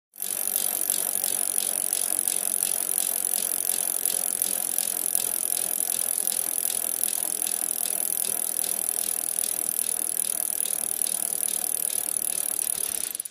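A steady run of fast, even mechanical clicks over a constant high hiss.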